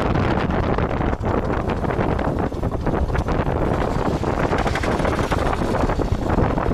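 Heavy wind buffeting the microphone over the steady running of a vehicle in motion.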